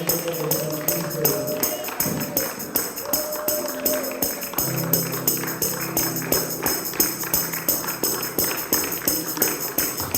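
Church worship music: a tambourine keeps a fast, even beat of about four to five strokes a second over held low notes that shift pitch now and then.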